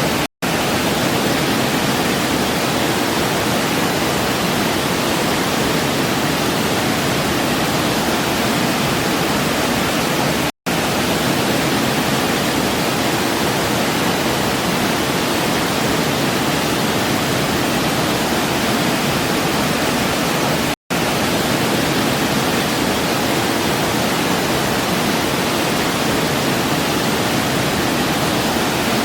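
Waterfall: a steady, even rush of falling water, broken three times by a split-second silence, about ten seconds apart.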